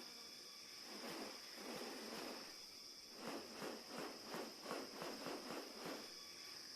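Faint, steady high-pitched insect drone, with soft rustling scuffs that come in a quick run of about three a second from about halfway through.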